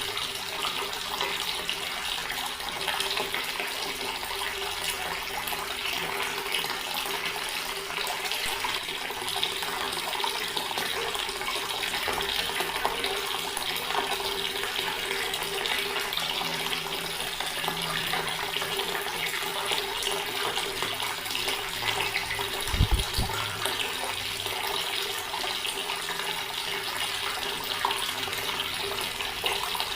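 Water from a tap running steadily into a stone basin, an even continuous splash. A single brief low thump about three-quarters of the way through.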